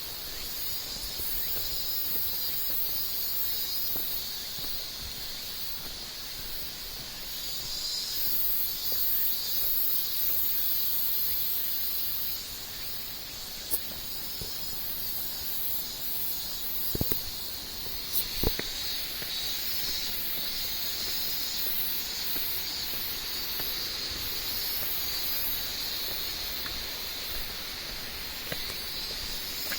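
Insects chirring steadily in a high band, with a still higher trill pulsing over it, above an even rushing hiss; a few sharp knocks come in the middle.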